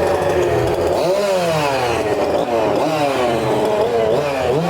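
Chainsaw engine running, then revved up and down again and again from about a second in.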